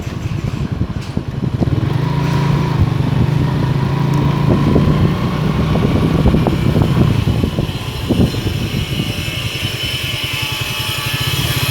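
Motorstar Star X 125 motorcycle engine running under way, with scattered knocks. About eight seconds in it eases to a lower, evenly pulsing beat.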